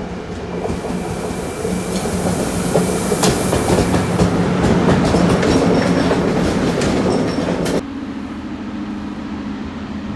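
Train rolling along the station tracks, its wheels clicking over rail joints and points over a steady electric hum, growing louder as it comes close. About eight seconds in, the sound cuts off abruptly to a quieter, steady hum.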